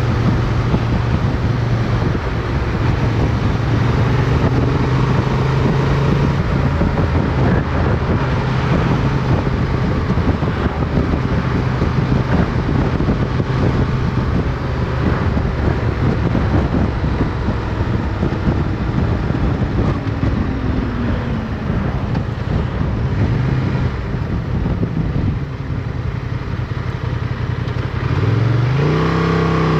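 Motorcycle engine running while riding, heard from onboard. The engine note holds steady, eases down through the middle, then rises sharply near the end as the rider accelerates.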